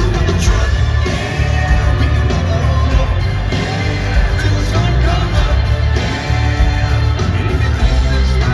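Live country-rock band playing loud, with a heavy, steady bass-and-drum low end, as heard in an arena.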